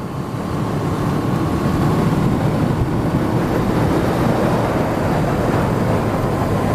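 Motorcycle riding at road speed: a steady engine drone inside a dense rush of noise, swelling over the first second and then holding level.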